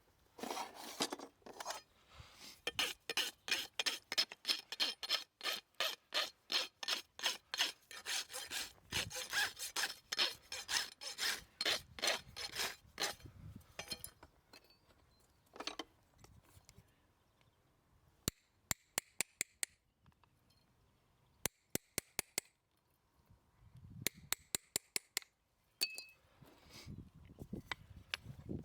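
Farrier's rasp filing a horse's hoof in quick, repeated back-and-forth strokes, lasting about the first half. Later come two short runs of sharp ticks and a few more rasp strokes.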